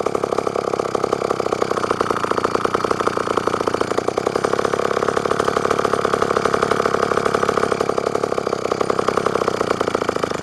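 McCulloch 1-50 two-stroke chainsaw engine running without a break at a fast, rapid firing beat. Its worn carburettor needs a rebuild kit, so it will not hold a steady idle and just does what it wants to.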